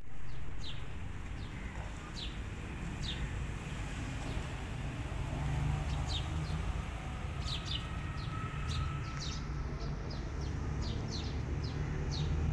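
Small birds chirping, short sharp high calls that drop in pitch, scattered at first and then coming in a quicker run near the end, over a steady low rumble.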